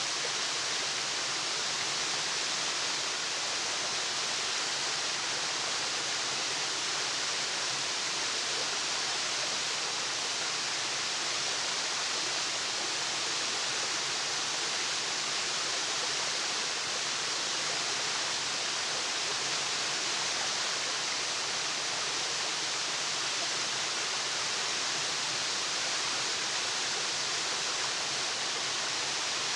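Waterfall rushing: a steady, even hiss of falling water, strongest in the high range, with no change.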